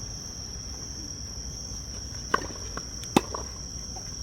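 Tennis ball struck during a rally: two sharp pocks a little under a second apart, the second the loudest, over a steady high-pitched insect drone.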